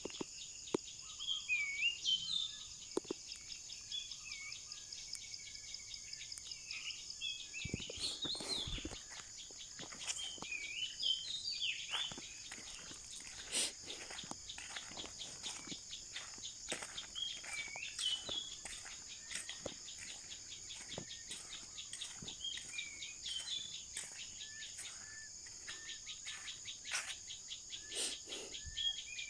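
Small birds chirping and calling repeatedly, short upturned notes, over a steady high-pitched insect drone, with scattered faint clicks.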